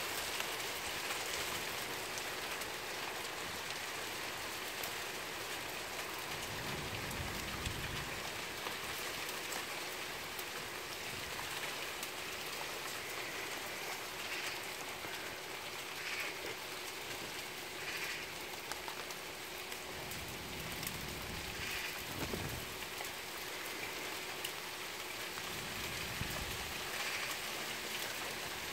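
Heavy rain falling steadily with a dense patter, broken a few times by brief low rumbles.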